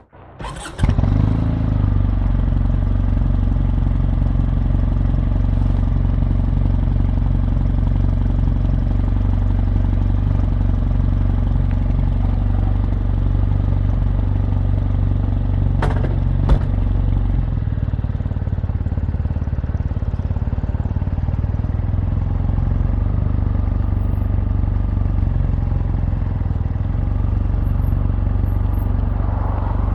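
Kawasaki W800's air-cooled parallel-twin engine idling steadily through its exhaust. There are two sharp clicks about halfway through.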